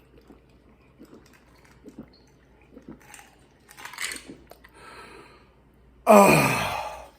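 A man drinking bottled water: small clicks and gulping noises, then about six seconds in a loud, falling 'ahh' of relief after the drink.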